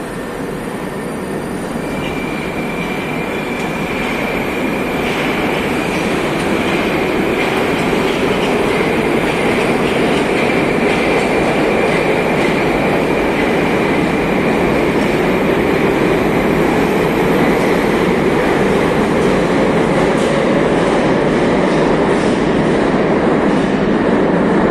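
Moscow metro train running along the station platform. A steady rumble carries slowly gliding motor tones and a thin high whistle, and wheel clicks over the rail joints come faster towards the end. It grows steadily louder throughout.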